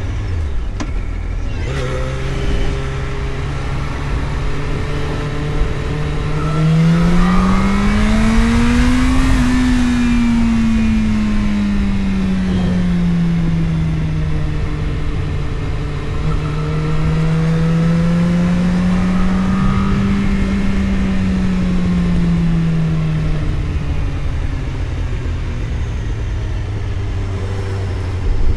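Vehicle engine pulling through the gears on a country road: the revs climb steadily to a peak about nine seconds in, ease off, rise gently again around twenty seconds and settle lower near the end. Steady road and wind noise runs underneath.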